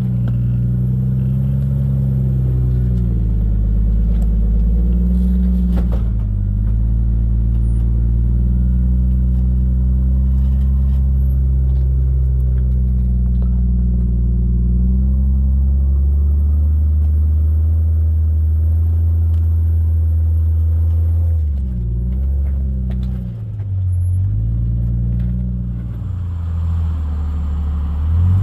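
Rock-crawling Jeep Cherokee XJ's engine working at low revs, its pitch rising and falling as the throttle is fed on and off, with a few deeper drops in the last several seconds.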